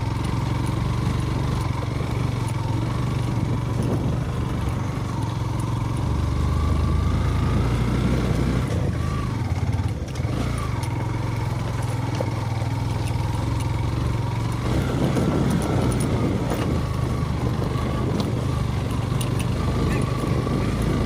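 Yamaha FZ V2 motorcycle's 150 cc single-cylinder engine running steadily at low revs as the bike is ridden over a rough, stony off-road track. About three-quarters of the way through, a rougher rumbling noise joins the engine.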